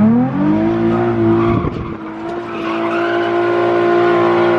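Nissan 350Z's 3.5-litre V6 revved up quickly and held at high, steady revs while a rear tyre spins and squeals in a burnout. Only one wheel peels, the sign of the car's stock open differential.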